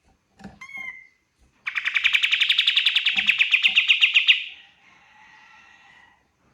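Pied triller (kapas tembak) song: a few short whistled notes, then a loud, fast trill lasting nearly three seconds that fades into faint chatter.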